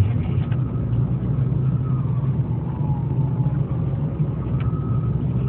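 Freeway traffic noise: a steady low rumble with the faint rising and falling whine of motorcycle and quad engines revving as they pass.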